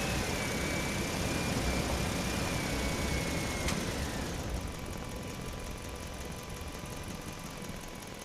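Electric motors and gears of a radio-controlled toy excavator whining steadily. The whine stops with a click about halfway through, leaving a quieter mechanical hum.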